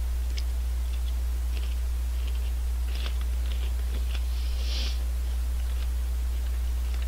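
Crisp potato snack being crunched and chewed close to the microphone: faint scattered crackles, with a slightly longer crunchy patch about four and a half seconds in. A steady low electrical hum runs underneath and is the loudest thing.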